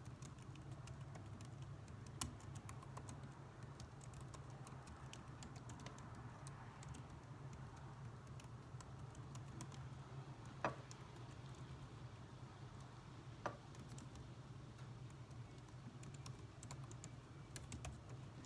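Faint computer-keyboard typing: irregular key clicks, with three louder clicks about two, ten and a half and thirteen and a half seconds in, over a steady low hum.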